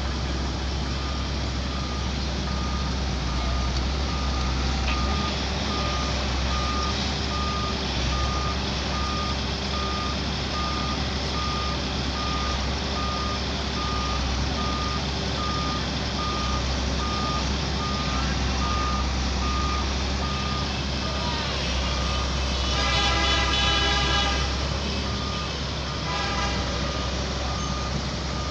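Diesel engine of heavy construction machinery running steadily under a reversing alarm beeping at an even pace. Near the end a louder, pitched sound lasts about two seconds.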